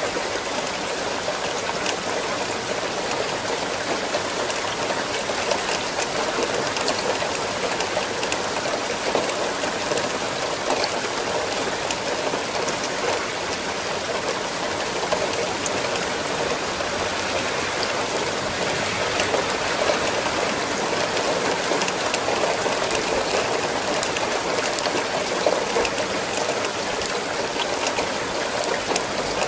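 Steady rain falling: an even hiss, with the odd distinct drop ticking through it.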